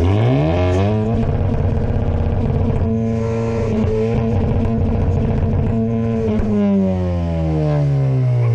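Car engine revved hard and held at high revs for a loudness-contest reading: the pitch climbs in the first second, stays high, then falls away over the last couple of seconds as the revs come down.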